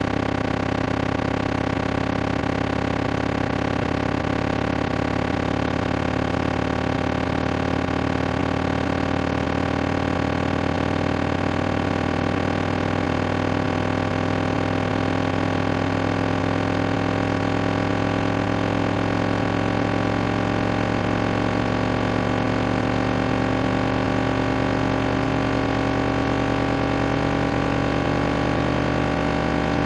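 Synthetic water-eject speaker-cleaning signal: a dense cluster of steady electronic tones, several gliding slowly upward in pitch, loudest in a low buzzing band, playing at an even level throughout.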